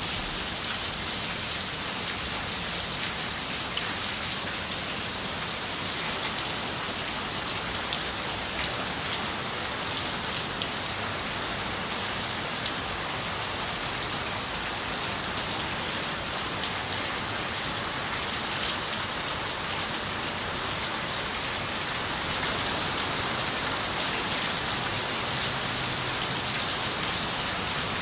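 Steady rain on a window: a dense, even hiss with scattered small drop ticks, growing a little louder about three-quarters of the way through.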